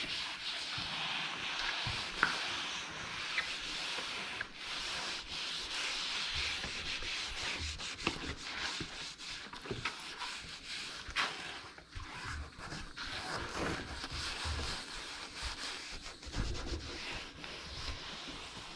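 Headliner fabric being rolled out and rubbed down by hand onto the glued headliner board: an uneven scratchy rubbing with scattered small clicks and knocks.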